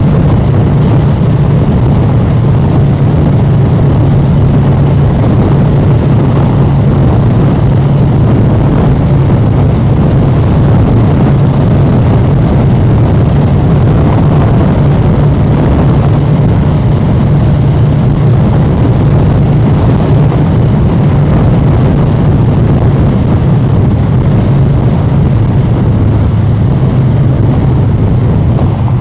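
Harley-Davidson Street Bob 114's Milwaukee-Eight V-twin running loud through an SP Concepts aftermarket exhaust while riding at a steady cruise, its note dropping a little in pitch near the end.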